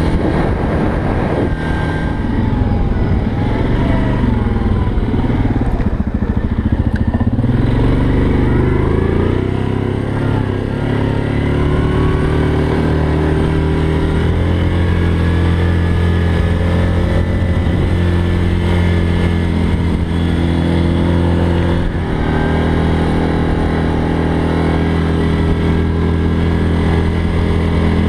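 ATV engine running steadily under way, its note falling and picking up again a few times as the throttle changes.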